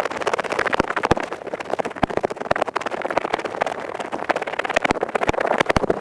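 Ear pick scraping and scratching rapidly right at the microphone: a dense, unbroken run of fast, dry, crackly clicks.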